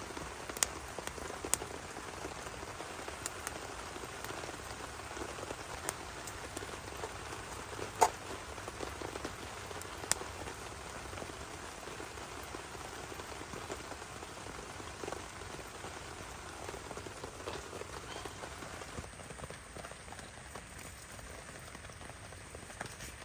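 Heavy rain falling steadily, with scattered sharp taps of single drops, the loudest about eight seconds in.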